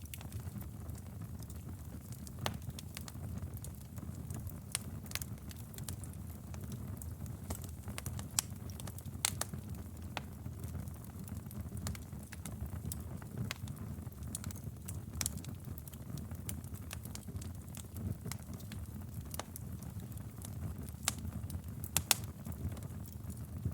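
Wood fire burning in a fireplace: a steady low rumble with irregular sharp crackles and pops, a few louder snaps scattered through.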